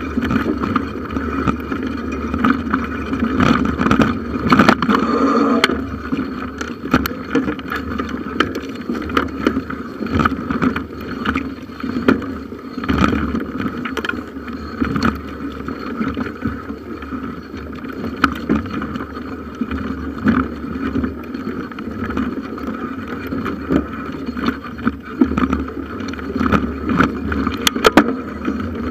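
Bicycle being ridden, heard through a camera mounted on its handlebars: a continuous rumble and rattle, with scattered sharp knocks.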